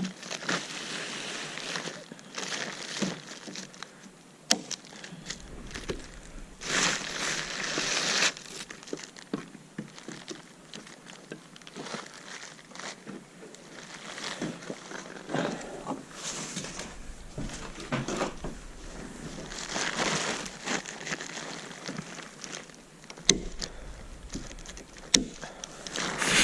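Plastic tarp crinkling and rustling as it is handled and spread over a roof, with a few sharp clicks.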